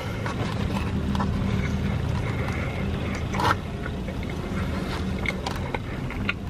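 Close-up chewing and small mouth clicks of someone eating pizza, over a steady low hum inside the car, with one short louder mouth noise about three and a half seconds in.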